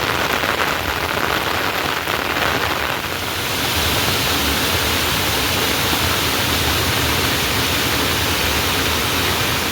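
Heavy rain falling in a loud, steady hiss. About three seconds in, it becomes a fuller, brighter wash.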